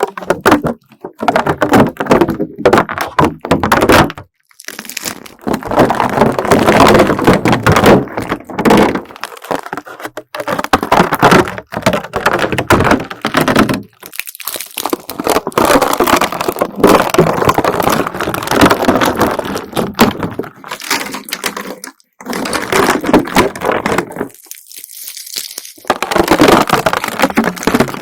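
A layer of dried slime loaded with beads being peeled off, a dense ripping crackle in stretches of several seconds with short pauses between them.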